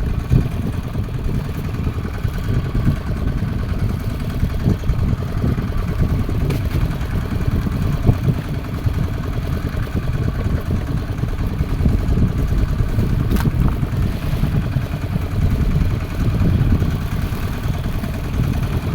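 Fishing boat engine running steadily, a dense low rumble, with a single brief click about thirteen seconds in.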